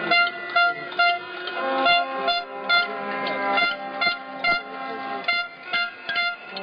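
Protesters' horns and noisemakers tooting loudly in a quick, uneven rhythm of short pitched blasts, about three a second, with a longer held low tone in the middle.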